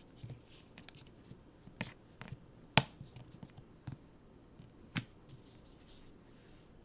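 Scattered clicks and light taps of a pin badge set and its packaging being handled. The sharpest click comes a little under three seconds in, and another about five seconds in.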